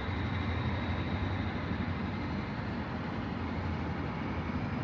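Steady low rumble of road traffic, an even city-street background with no single event standing out.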